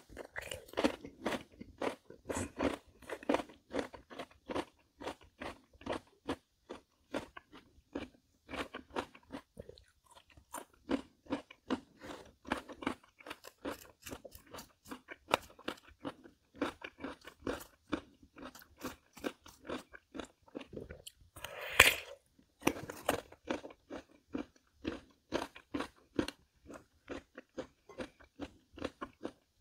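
Close-miked chewing of crisp Korean melon (chamoe): a steady run of wet, crunchy bites and chews a few times a second, with one much louder crunch late on.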